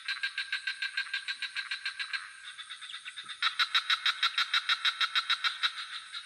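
Frogs calling in rapid pulsed trills of about ten pulses a second: one bout at the start, then a louder bout from about halfway. Underneath is a steady high insect drone.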